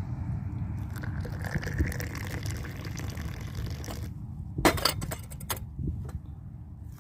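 Tea poured from a teapot into a small tea glass, a stream of liquid for about two seconds, followed by a couple of sharp clinks of glass a few seconds in.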